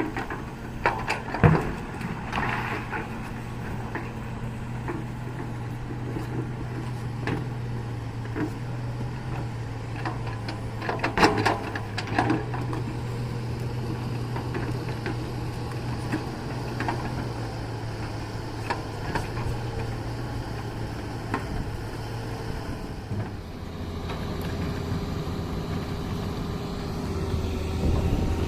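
Heavy diesel machinery running steadily, with sharp clanks and knocks over the engine hum, loudest about a second in and again about eleven seconds in. Near the end the engine note drops lower and gets louder.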